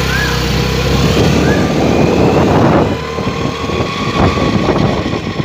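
Honda Activa 6G scooter running with a loud, generator-like mechanical din. About three seconds in, its steady whine shifts higher and the sound eases slightly. The noise is abnormal gearbox noise, which the mechanic puts down to a cracked gearbox bearing or a broken or slipping gear.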